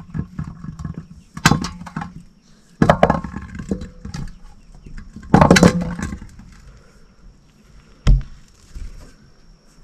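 Kitchen work: a few bouts of knocking and clattering, the loudest about halfway through and a single sharp knock near the end, with quieter handling noise between.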